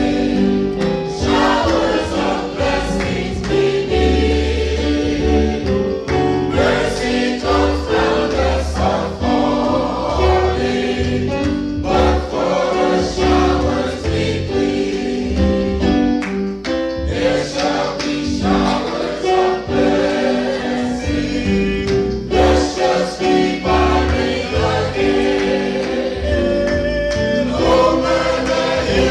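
Choir singing a gospel hymn, loud and continuous.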